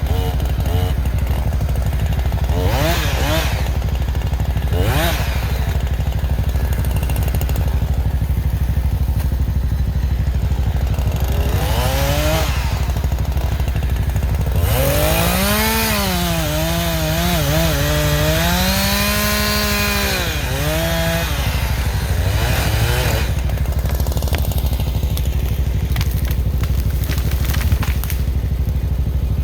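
Chainsaw revving in short bursts, then held at high revs for several seconds in a cut, its pitch dipping and climbing back as the bar bogs under load. A steady low engine drone runs underneath throughout.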